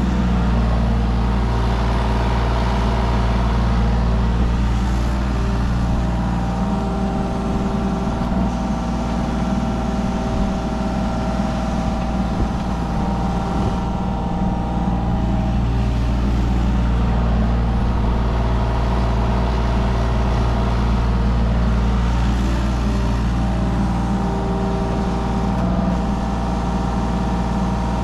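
Mini excavator's diesel engine running steadily under working load, with a hydraulic whine that comes and goes as the boom, bucket and tiltrotator are worked.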